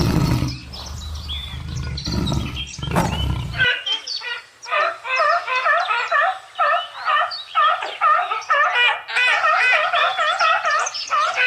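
A lion's deep roaring and growling, cut off abruptly a few seconds in. It is followed by a turkey gobbling: a long series of quick, repeated warbling calls, several a second.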